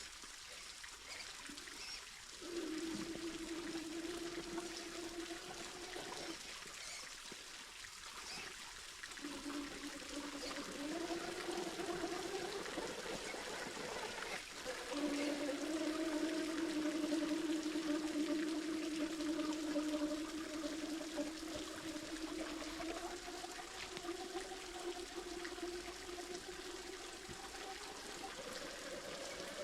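Electric motor of an RC rock crawler whining in stretches, its pitch stepping up and down with the throttle, over the steady rush of creek water. The whine drops out for a few seconds early on and is loudest around the middle.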